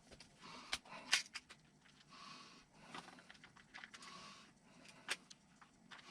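Small parts being handled at a workbench: a few scattered light clicks of ball-stud spacers and hardware, with two short stretches of soft rustling.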